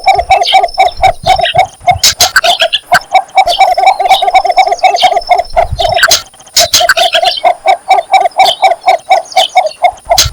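Cinnamon bittern's courtship call: a long run of fast, even clucking notes, with a short break about six seconds in. Other birds chirp higher above it, and there are a few sharp clicks.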